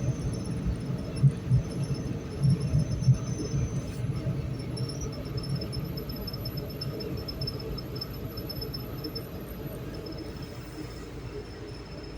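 ED4M electric multiple unit running, heard from inside the car: a low rumble with a few heavy knocks in the first three seconds, growing gradually quieter, and a faint steady high whine above it.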